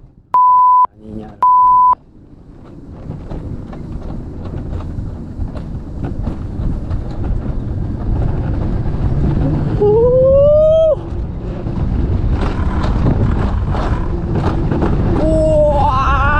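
Two short, loud electronic beeps, then the rumble of an alpine coaster sled running down its rail, growing steadily louder. A rider gives a rising whooping shout about ten seconds in and another near the end.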